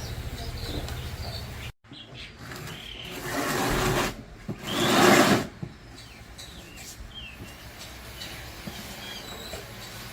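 Motorcycle engine idling with an even low pulse, cut off abruptly just under two seconds in. Then two bursts of hissing, the second louder, with birds chirping throughout.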